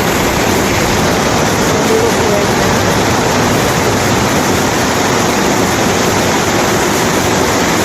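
Very heavy rain pouring down steadily.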